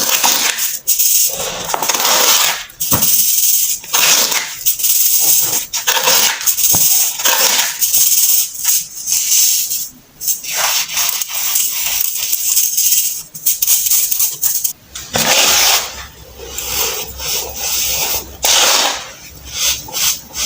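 Dried, crunchy baking soda being crushed and crumbled close up, a dense run of crisp crunches and crackles in an irregular rhythm. A low hum joins underneath about fifteen seconds in.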